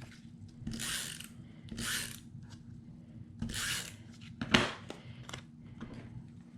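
Paper and craft tools handled on a work table: three short rustling swishes of paper sliding, and a sharp click about four and a half seconds in, with a few lighter clicks.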